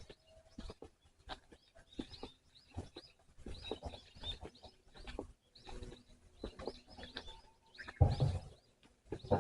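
Small birds chirping over and over, mixed with frequent soft knocks and rustles, and one louder bump or rustle about eight seconds in.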